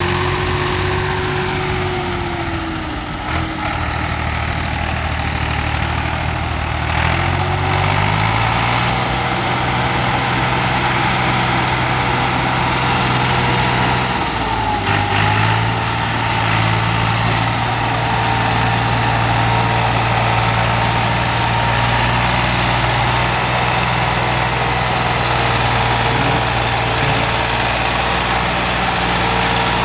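Massey Ferguson 260 tractor engine running under load while pulling a fully loaded trailer. Its pitch sags a few seconds in, picks up about eight seconds in, dips briefly about halfway through, then holds steady.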